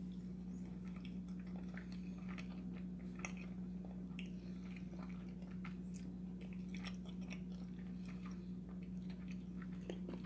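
A person chewing a bite of breaded chicken patty: soft, irregular mouth clicks over a steady low hum.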